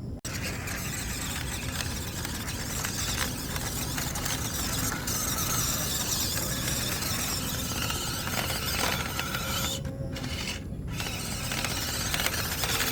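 Small-scale RC off-road crawler (MN99S D90) driving, its electric motor and plastic gear drivetrain whining and grinding steadily, briefly easing off twice near the end.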